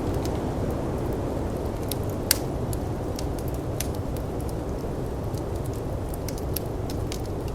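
Firepit crackling with scattered sharp pops, one louder pop about two seconds in, over the steady low rush of snowstorm wind.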